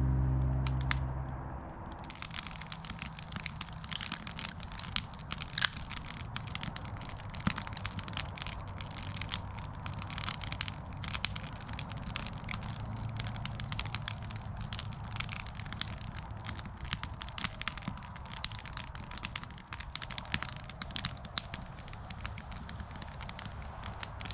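Wood campfire crackling, with many sharp irregular snaps. Guitar music fades out in the first two seconds.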